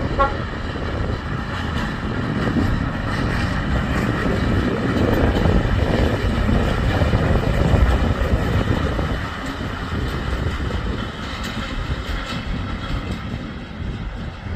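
A train running past, a steady heavy rumble that grows louder to about halfway through and then fades off.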